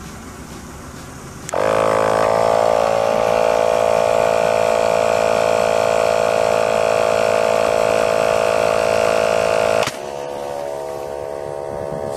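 Electric air pump switching on suddenly about a second and a half in and running with a steady buzzing drone, pressurising an upside-down water bottle rocket. Near the end the sound suddenly drops in loudness and its pitch rises slightly as the pump's load falls, which fits the bottle letting go and launching.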